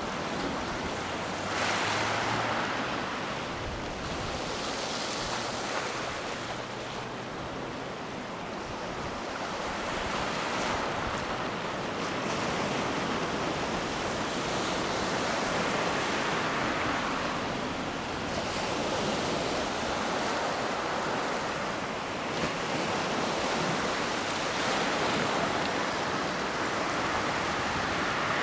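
Surf washing onto a beach, swelling and fading every few seconds, with some wind on the microphone.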